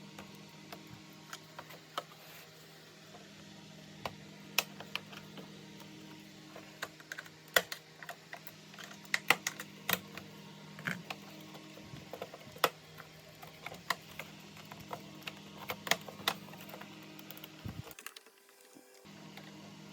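Irregular light clicks and taps of plastic parts and small tools being handled during disassembly, over a steady low hum.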